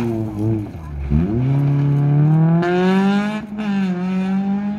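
Rally car engine revving hard as the car powers out of a gravel corner. The pitch dips about a second in, then climbs steadily through a gear, with a short break for a gear change about three and a half seconds in.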